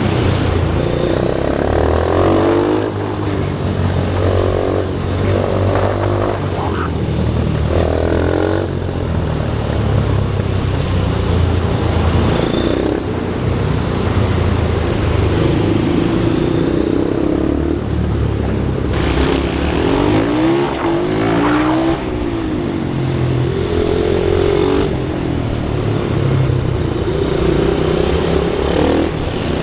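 Pit bikes' small single-cylinder engines running hard on a track, the pitch climbing and dropping over and over as they accelerate and shut off. Around two-thirds of the way through, more than one bike is heard at once.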